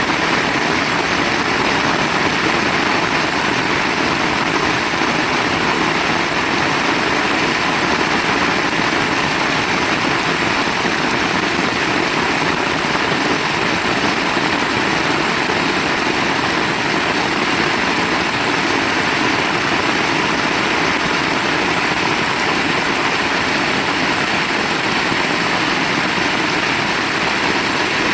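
Heavy rain falling steadily, an even unbroken hiss with no thunderclaps.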